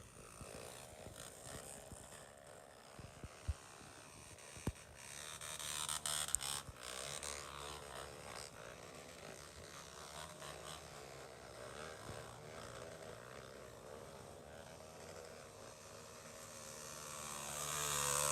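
Off-road motorcycle engines buzzing at a distance, swelling louder about six seconds in and again near the end as bikes come closer.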